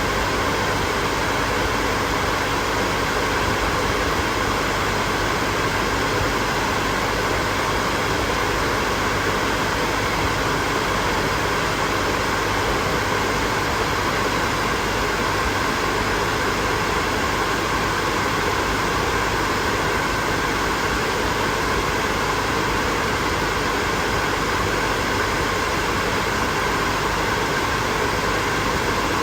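Hair dryer running steadily: an even rush of blown air with faint steady motor tones inside it, unchanging throughout.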